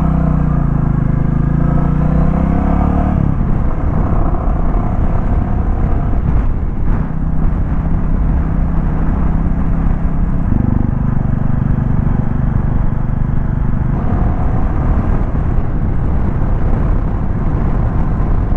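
Royal Enfield Classic 350's single-cylinder engine running as the motorcycle is ridden. The engine note changes about three seconds in and again about ten seconds in.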